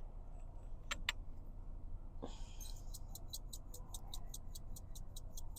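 Steady low hum of an idling car engine under a few kitchen clicks, with a short hiss just after two seconds. From about three seconds in, a fast, even, high ticking of about six a second.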